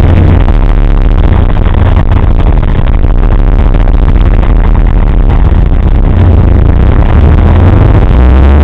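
Car engine and road noise, loud and steady, with a deep hum underneath.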